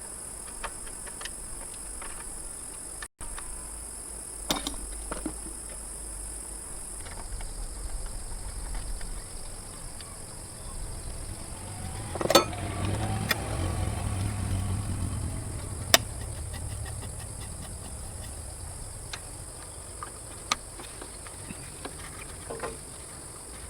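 Steady high-pitched insect drone, with scattered sharp clicks and taps, like tools handled on metal. About halfway through, a low rumble swells for a few seconds with a louder clatter and two sharp knocks.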